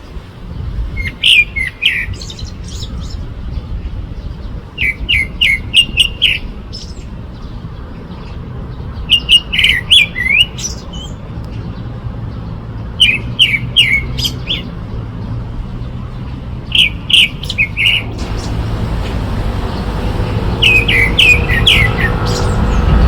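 A songbird singing short, quick phrases of clear notes, repeated about every four seconds, over a low rumble that grows louder near the end.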